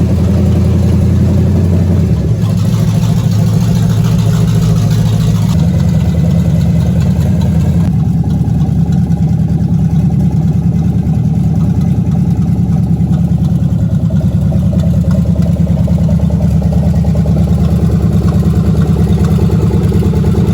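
Chevrolet S10 pickup's engine running steadily just after being started, its note shifting a couple of times in the first several seconds.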